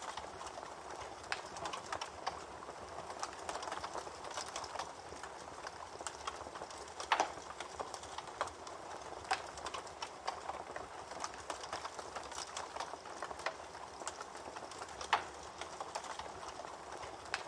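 Campfire burning: a steady crackling hiss with irregular sharp pops of burning wood, the loudest a few at scattered moments.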